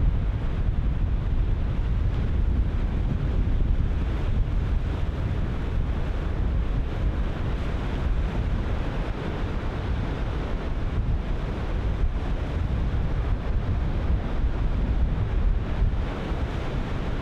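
Ocean surf breaking in a steady wash, with wind buffeting the microphone in a low rumble.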